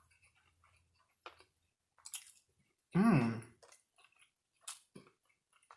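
A person chewing fried chicken and donut with the mouth close to the microphone, giving a few soft, wet clicks and smacks. About three seconds in there is a short hummed "mmm".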